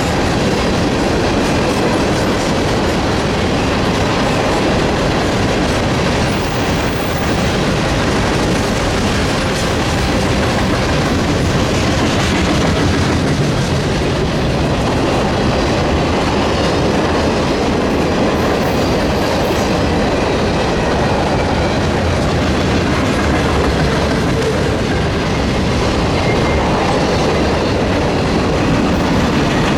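Freight train cars rolling steadily past, with continuous wheel-on-rail noise and clickety-clack from wheels crossing rail joints.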